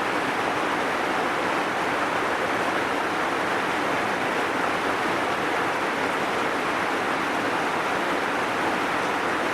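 Heavy rain falling in a steady, even hiss, with no single drops or other events standing out.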